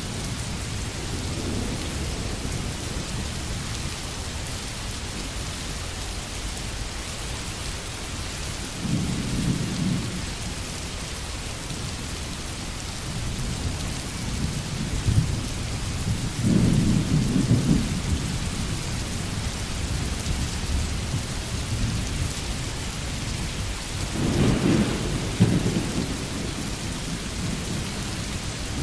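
Steady heavy rain with thunder rumbling low three times: about a third of the way in, again near the middle, and loudest near the end.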